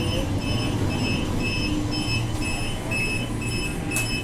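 Transperth electric train standing at the platform with a steady low hum, over which a high electronic beep repeats quickly, about two to three times a second.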